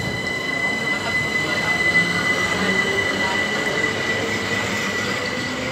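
Electric multiple-unit passenger train rolling slowly alongside the platform, with a steady high-pitched whine over the rumble of the wheels.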